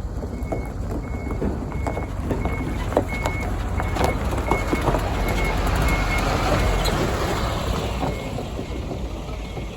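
Grain train wagons rolling past, with wheels clicking and knocking over rail joints over a low rumble that swells to its loudest about six seconds in and then eases. A short high electronic beep repeats about twice a second throughout.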